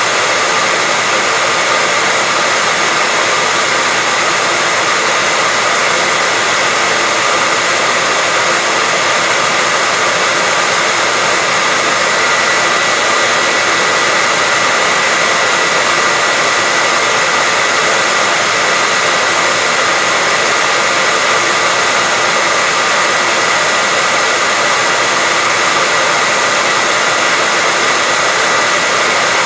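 Hair dryer running steadily: an even rush of air with a constant whine above it.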